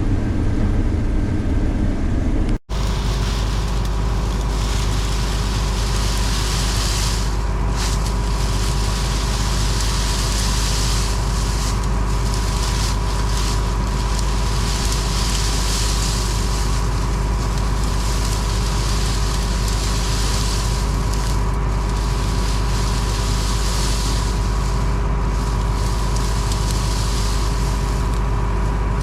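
Combine harvester running steadily through soybeans: a deep, constant engine drone with a steady whine over it and a fluctuating hiss. The sound breaks off for an instant about two and a half seconds in, then carries on the same.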